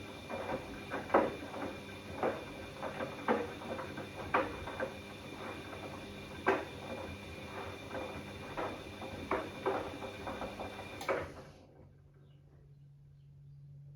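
Bosch Classixx 6 front-loading washing machine turning its drum while heating a 90° cottons wash: a steady motor whine with irregular knocks and splashes from the wet load. About 11 seconds in, the drum stops suddenly, leaving a low steady hum.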